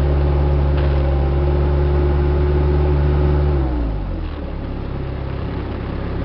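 Diesel engine of a piece of heavy equipment running at high throttle, then throttled back: its pitch falls about three and a half seconds in and settles to a steady idle.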